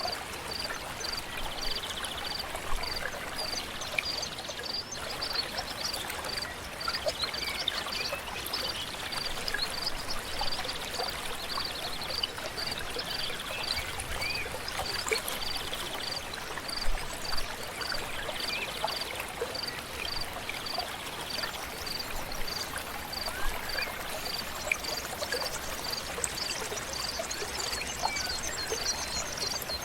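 River water flowing steadily. Over it, a high note repeats about twice a second throughout, and a few short trills come and go, as from birds.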